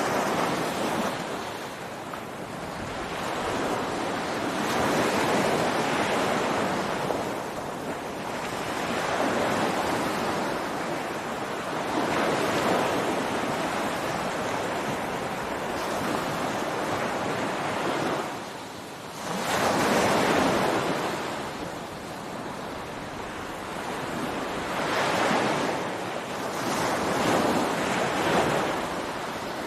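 Ocean waves breaking on a beach, the surf swelling and falling back every few seconds, with a brief lull just before the loudest wave about two-thirds of the way through. Light wind on the microphone.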